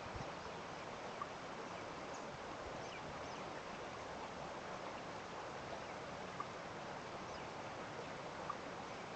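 Steady outdoor nature ambience: an even rushing hiss of wind and water, with a few faint, short bird chirps scattered through it.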